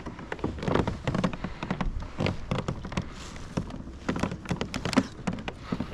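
A quick, irregular series of small taps and knocks, with a few duller thumps among them.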